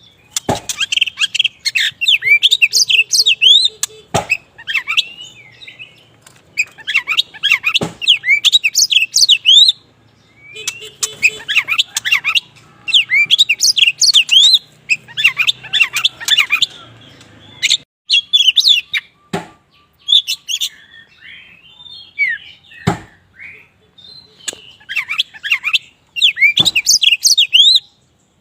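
Kacer wulung (black Oriental magpie-robin) singing in full voice: repeated phrases of rapid, varied high chirps and whistles a second or three long, with short pauses between them. A few sharp knocks are heard in between the phrases.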